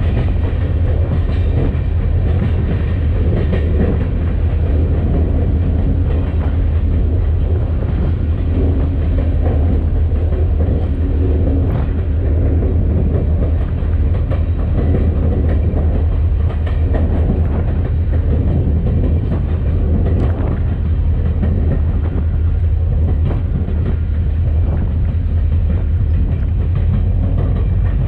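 EMD SD40-2 diesel locomotive running down the track, heard from its short nose: a steady, loud low rumble with a few clicks of the wheels over the rail.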